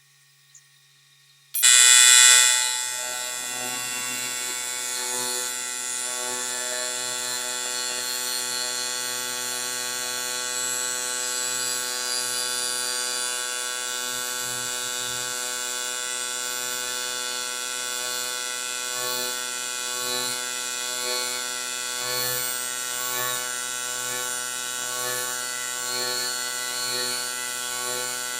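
AC TIG welding arc on 6061 aluminum, striking suddenly about a second and a half in with a brief loud, bright start, then settling into a steady electric buzz that swells slightly about once a second near the end.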